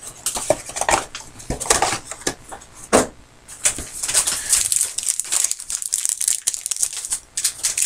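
Crinkling and crackling of trading-card pack wrappers being handled and opened, irregular, with a sharper snap about three seconds in.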